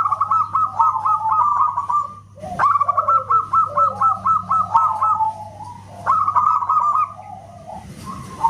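Zebra dove (perkutut) singing: three phrases of rapid, repeated staccato coo notes, with a faint steady hum underneath.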